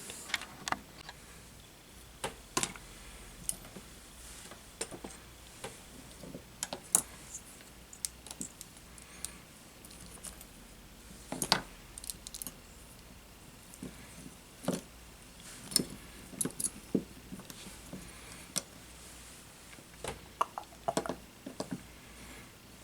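Tools and small parts being handled on a workbench during a drone frame repair: scattered light clicks, taps and clinks at irregular intervals, with a quick cluster of them about twenty seconds in.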